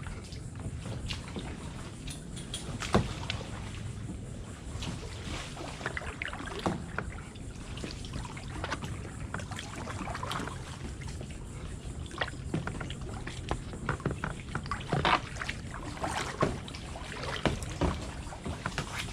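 Kayak paddles dipping and splashing in water, with irregular sharp knocks throughout, the loudest about three seconds in.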